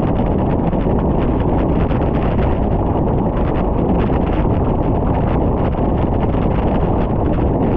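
Loud, steady wind rushing over the microphone of a camera on a bicycle descending a mountain road.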